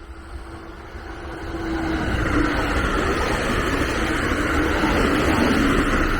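A train passing close by: a rushing rumble that builds over the first two seconds and then holds loud, with a humming tone that slowly falls in pitch.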